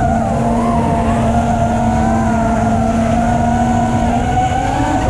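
FPV racing quadcopter's brushless motors and propellers whining steadily, the pitch rising and falling a little with the throttle.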